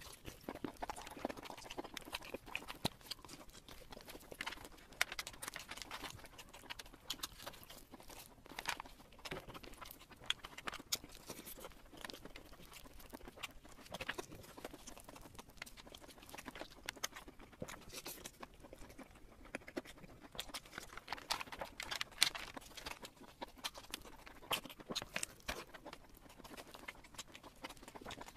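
Close-miked eating sounds: chewing with irregular wet mouth clicks and smacks.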